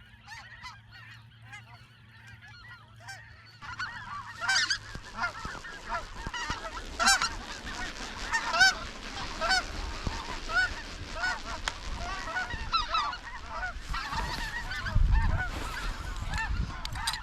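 A flock of snow geese calling overhead: many overlapping high yelping calls, faint at first and much louder and denser from about four seconds in. A few low thumps on the microphone near the end.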